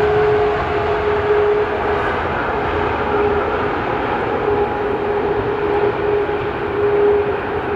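Jet airliner engines, a loud steady roar with a mid-pitched tone that fades in and out.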